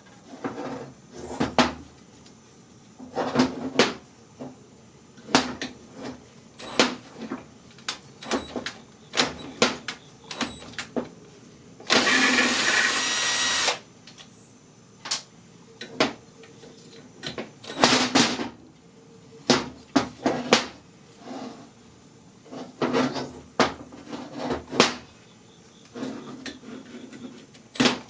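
Metal tools and small-engine parts clinking and knocking irregularly as a Honda FG100 (GX31) tiller engine is taken apart, with one steady burst of noise lasting under two seconds about twelve seconds in.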